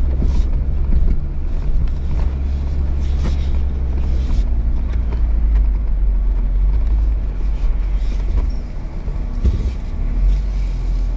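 Jeep running and driving slowly, heard from inside the cabin as a steady low rumble.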